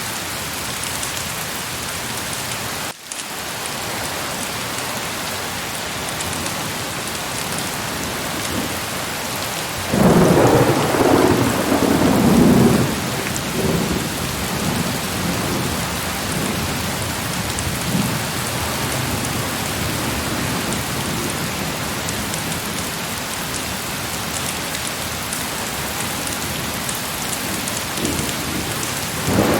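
Heavy rain pouring steadily, with a momentary dip about three seconds in. About a third of the way through, a loud rumble of thunder lasts around three seconds and fades, and another thunder rumble begins at the very end.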